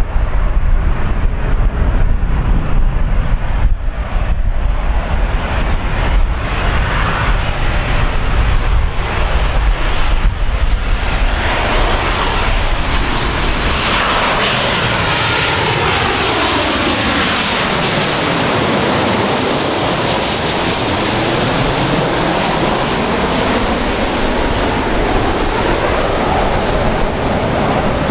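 Boeing 737-800's CFM56 turbofan engines on landing approach, growing louder as the jet passes low overhead, with a high engine whine that rises and then falls in pitch. Wind buffets the microphone in the first part.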